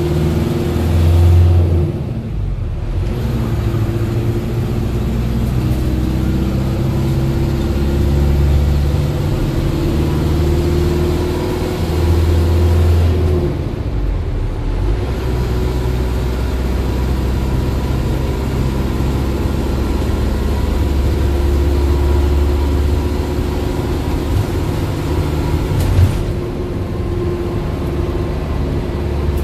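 A motor vehicle being driven: steady engine and road noise, heard as from inside the vehicle, with the engine note changing now and then. There is a brief knock near the end.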